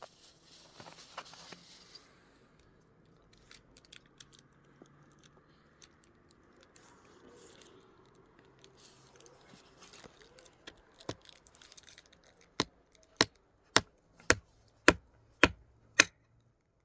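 Rustling and scattered small clicks of something being handled, then a run of eight sharp knocks about two a second near the end, the loudest sounds here.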